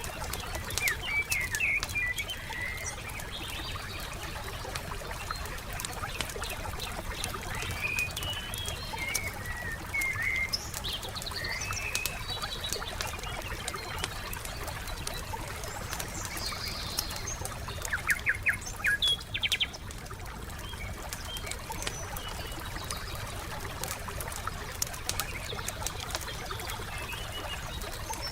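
Wood fire crackling with many small sharp pops, while small birds chirp and sing on and off; a quick run of rapidly repeated bird notes comes a little past halfway.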